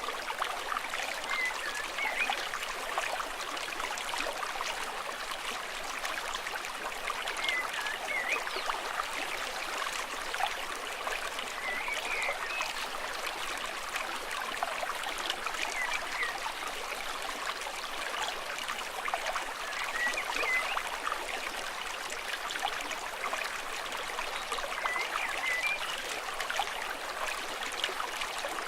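Stream water babbling and trickling steadily over rocks. A short, high chirp sounds every four to five seconds.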